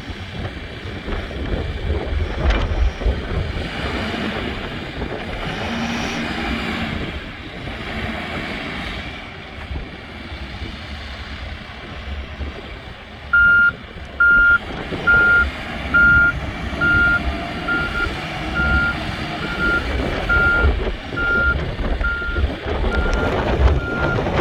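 Case 580N backhoe loader running, its engine rumbling and changing pitch as it works, then its reversing alarm starts about halfway through, beeping steadily a bit more than once a second.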